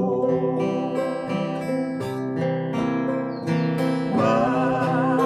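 Acoustic guitar and ukulele strumming a slow folk-song accompaniment, the chords changing about once a second.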